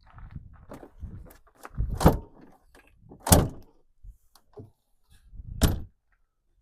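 A series of handling knocks and thumps: three loud knocks with lighter clicks and taps between them.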